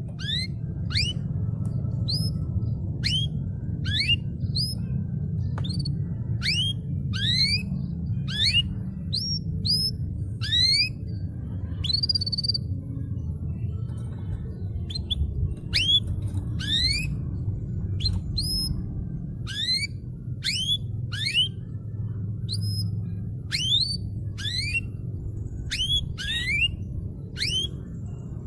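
Domestic canary singing: a steady run of separate, sharply rising whistled notes, about one or two a second, over a steady low rumble.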